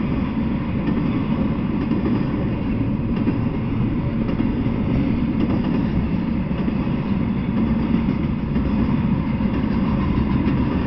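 Intermodal freight train carrying semi-trailers on flatcars rolling past: a steady rumble of steel wheels on the rails.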